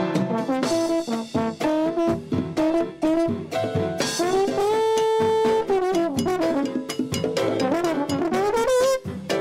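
Latin jazz band playing live: a single brass horn carries the melody, sliding between notes, holding one long note about midway and bending with vibrato near the end, over a steady beat of drums and percussion.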